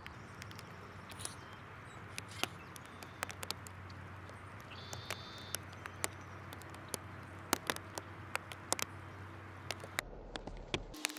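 Backyard outdoor ambience: a steady hiss dotted with many sharp irregular ticks and clicks, and one short, level, high-pitched bird call about five seconds in. Near the end the background changes abruptly, as at a cut between recordings.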